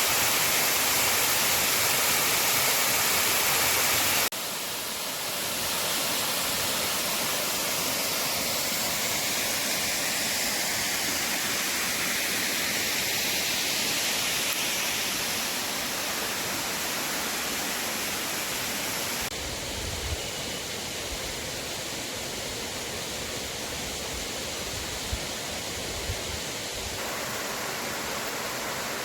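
Waterfall: a steady rush of falling water that changes abruptly in level and tone twice, about four and nineteen seconds in. A few soft low bumps come near the end.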